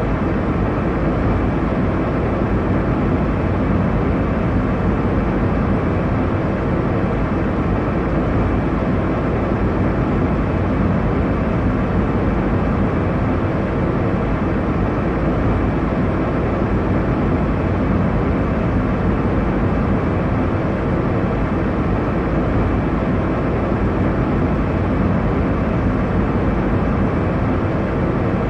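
Airliner cabin noise in flight: a steady, even rumble of engine and airflow noise, deepest in the low range, with no changes or distinct sounds.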